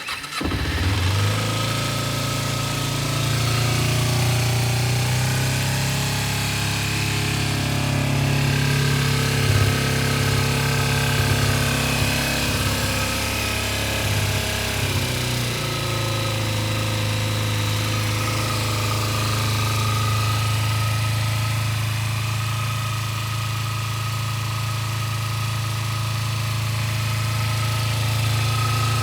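Cold start of a 2006 Kawasaki Ninja 250's parallel-twin engine: it catches at once and settles into a steady idle. About halfway through the idle note changes slightly and then holds steady.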